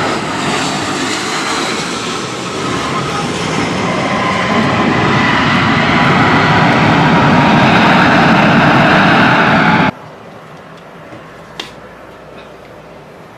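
Aircraft engines running loud and steady, filling the sound until they cut off abruptly about ten seconds in. A much quieter background follows, with a single click.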